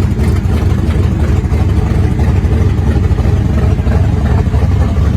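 Loud muscle car engine with an open exhaust running steadily, the sound mostly low-pitched and without any rise or fall in revs.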